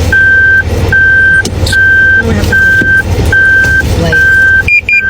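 Car's electronic warning beeps sounding about once a second over a low engine rumble; near the end a faster, higher beeping joins in, like a parking-sensor alert.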